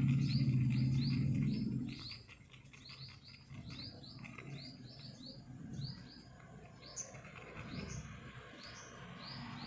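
A small bird chirping over and over in short high notes, about two or three a second. A louder low hum lies under it and stops about two seconds in.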